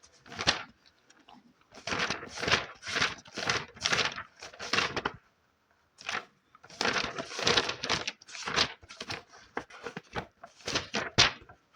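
Paper rustling and crinkling, as of book pages handled, in a quick run of short strokes with a pause about five seconds in.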